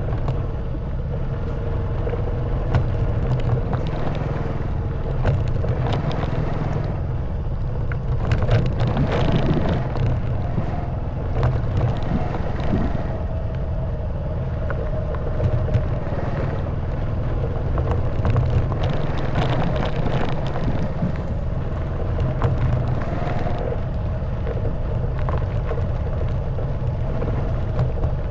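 Honda Wave 110cc single-cylinder four-stroke engine running steadily while riding, with occasional knocks and rattles from the bike going over a rough stone and mud track.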